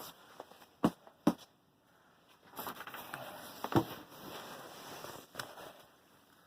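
Three sharp knocks, two close together about a second in and a third near four seconds, with a stretch of rustling noise around the third.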